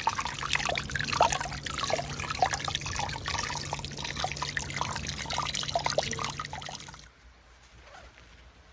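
Water trickling and splashing in a quick run of small drops, cutting off abruptly about seven seconds in.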